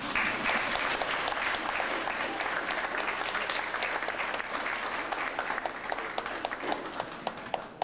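A live audience applauding. The clapping starts abruptly, holds steady and eases off slightly near the end.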